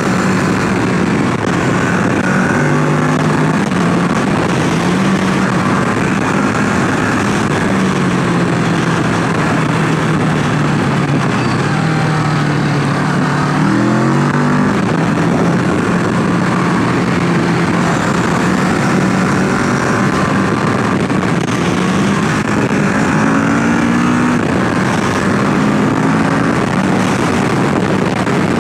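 Kawasaki Ninja 650's parallel-twin engine pulling the bike along at road speed, its pitch stepping up and down with throttle and gear changes, with a quick rise in revs about halfway through. A steady rush of wind and road noise runs under the engine.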